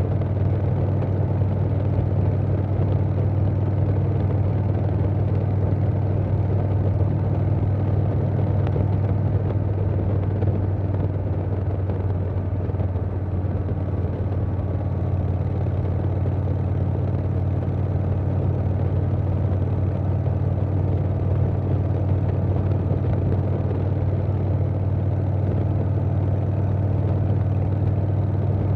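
Harley-Davidson Softail Standard's Milwaukee-Eight V-twin running steadily through a Vance & Hines Big Radius 2-into-2 exhaust, a low, even note with wind noise over it.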